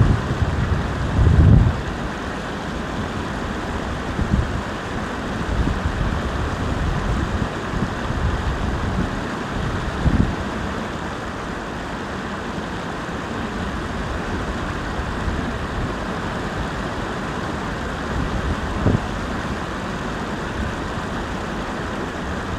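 Wind rushing across the microphone, a steady noise with a few brief low gusts.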